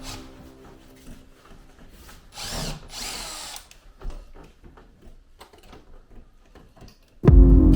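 Power drill running in a short burst, its motor whine rising and falling, amid scattered knocks and clicks of work. Loud music cuts in suddenly near the end and is the loudest thing heard.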